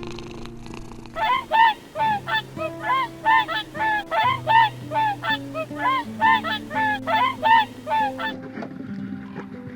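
Goose honking in a rapid series of short, arched calls, about three a second, starting about a second in and stopping near the end, over soft background music.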